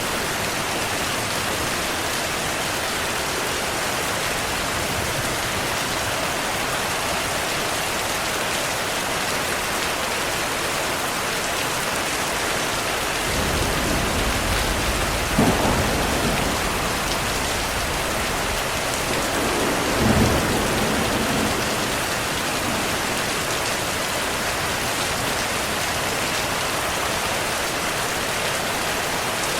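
Heavy rain falling steadily, with a roll of thunder that builds about halfway through, peaks twice a few seconds apart, and dies away.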